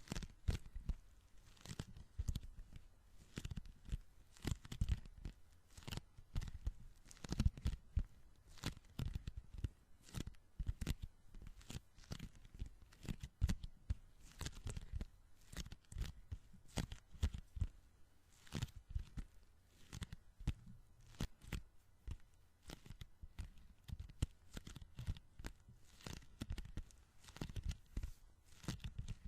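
Sticky hands or fingers being pressed together and pulled apart close to the microphone, making quick crackling, peeling sounds several times a second.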